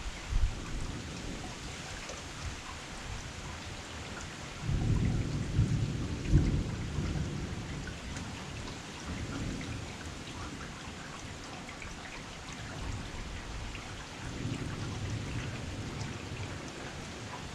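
Heavy rain falling steadily, with low rumbles swelling up about five seconds in, loudest around six seconds, and again near the end.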